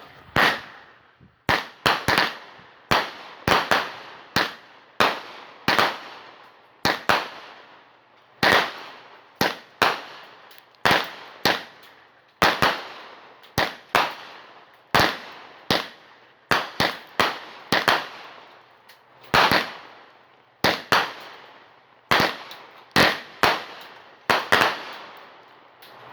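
Megabanger King Leo 25-shot consumer firework cake firing: loud sharp shots launching and bursting one after another, about one a second.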